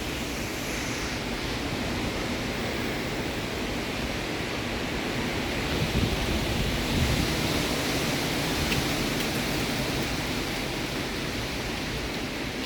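Strong wind of a severe storm rushing steadily, swelling in gusts about six and seven seconds in.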